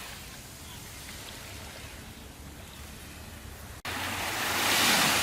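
Ocean surf: a steady wash of waves. After a momentary dropout about four seconds in, a louder wave swells and breaks.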